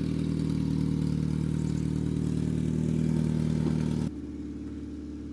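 2009 Ford Escape engine running steadily, with an exhaust leak at the header flange, whose nuts have rotted off. About four seconds in the sound drops abruptly to a quieter, steady engine hum.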